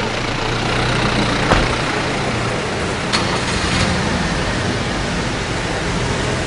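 A steady engine running under a broad hiss, with two sharp knocks about one and a half and three seconds in.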